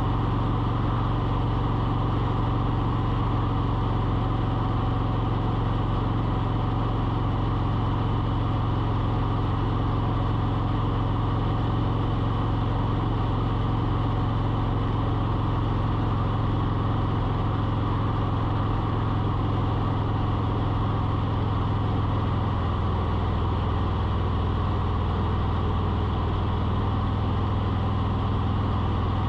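A small motor running steadily as a low hum, its pitch shifting slightly about 22 seconds in.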